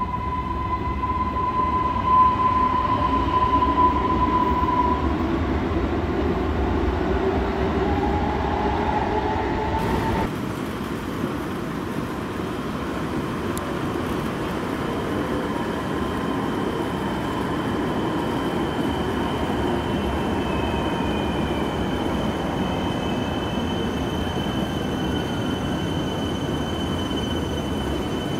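Electric multiple-unit passenger trains running into an underground station platform: rumble of the wheels on the track with steady high whining tones. The sound changes abruptly about ten seconds in as a second train pulls in, its whine joined by a tone that falls in pitch as it slows.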